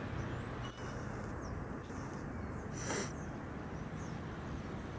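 Steady outdoor background noise with a low hum, a few faint high chirps, and one short hiss about three seconds in.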